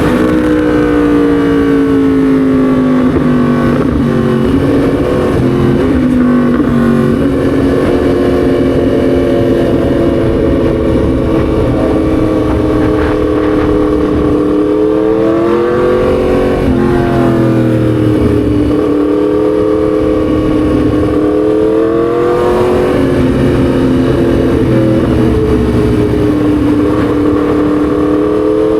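Yamaha MT-10 SP's crossplane inline-four engine running under way, its note easing down over the first few seconds, then rising and falling briefly about halfway through and again a few seconds later as the throttle changes.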